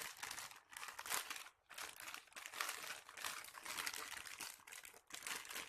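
Crinkly clear plastic bag crackling and rustling in irregular bursts as a squishy toy is pushed into it.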